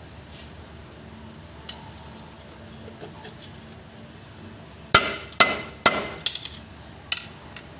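Hammer striking metal: about five sharp blows roughly half a second apart, starting about five seconds in, the first three the loudest.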